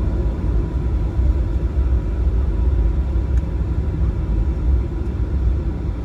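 Cabin noise inside a Boeing 737-900 taxiing: a steady low rumble from the engines at idle and the aircraft rolling on the taxiway, with a faint steady tone running underneath.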